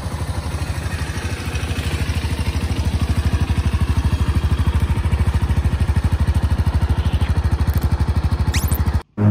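Honda XR250's single-cylinder four-stroke engine idling with a quick, even beat of exhaust pulses. It grows a little louder about three seconds in, then cuts off abruptly near the end.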